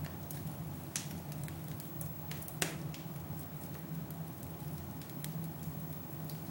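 Wood fire burning in a fireplace, crackling with scattered sharp pops, the two loudest about a second in and halfway through, over a steady low hum.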